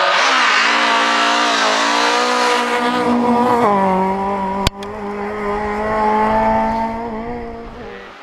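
Toyota Starlet rally car's engine running hard at high revs as it drives the stage. The revs dip twice in the first half, then hold steady and fade near the end. There is a sharp click about halfway through.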